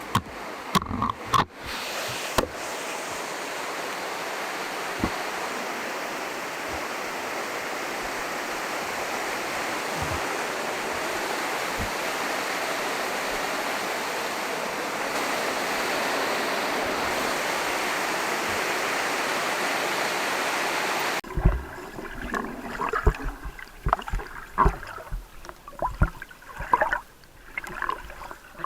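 Waterfall rushing in a steady, even roar of falling water. About 21 seconds in it cuts off abruptly, and a quieter stretch of uneven knocks and water sounds follows.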